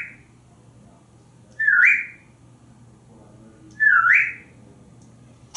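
African grey parrot whistling the same short call about every two seconds, each a quick downward swoop into a brief held note.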